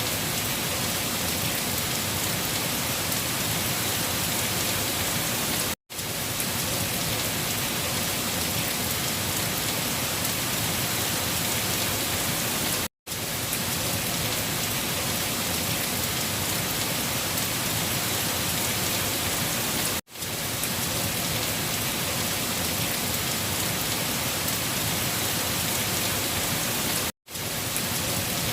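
Steady rain, an even hiss of falling drops, cut by a brief drop to silence about every seven seconds, four times, where the recording loops.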